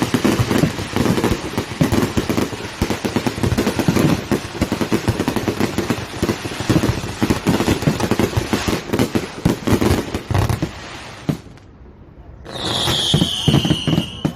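Aerial fireworks going off in a rapid, continuous barrage of booms and crackles, with a deep rumble underneath, then thinning out about eleven seconds in. Near the end a brief high whistling tone sounds, falling slightly in pitch.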